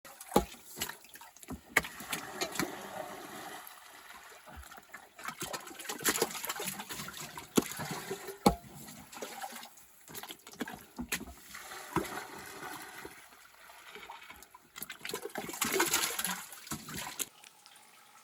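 Water splashing and sloshing in a shallow spring basin, with sharp knocks and scrapes scattered through; the splashing grows louder for a couple of seconds near the end.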